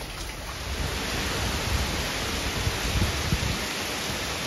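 Heavy rain pouring steadily on trees and the ground, a dense hiss that swells a little about a second in, with uneven low rumbling underneath.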